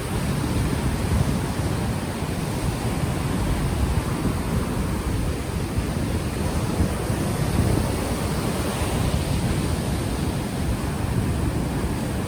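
Ocean waves washing steadily onto the shore, with wind buffeting the microphone, which has no windscreen, adding a low rumble.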